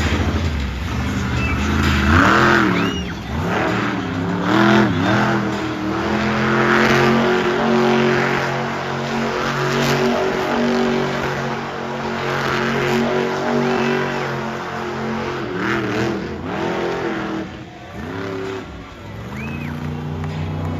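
Monster truck engine running hard and revving, its pitch swinging up and down again and again between stretches of steady high revs. The revs drop off briefly near the end, then pick up again.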